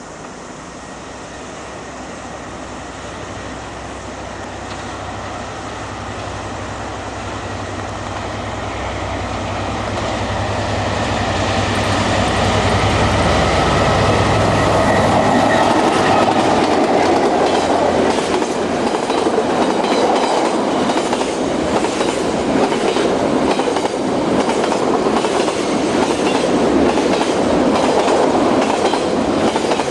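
A freight train approaching and passing. The locomotive's engine drone grows louder for about fifteen seconds, then the wagons roll past with a steady clickety-clack of wheels over the rail joints.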